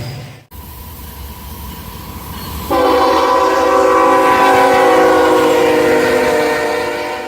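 Freight train rumbling, then a locomotive air horn sounding one long blast, starting suddenly about two and a half seconds in and holding for several seconds, its pitch sagging slightly near the end.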